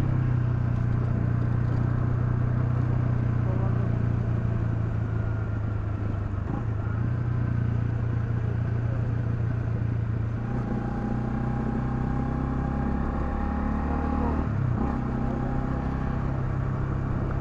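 Honda CL250 motorcycle engine running steadily while riding. Its note shifts about ten seconds in and briefly dips and picks up again a few seconds later.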